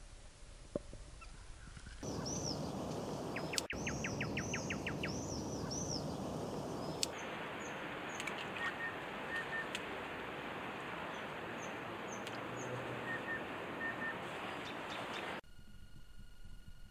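Small birds calling over a steady outdoor hiss: repeated arching chirps with a quick rattling trill of about ten notes a few seconds in, then scattered short chirps. The sound cuts off abruptly near the end.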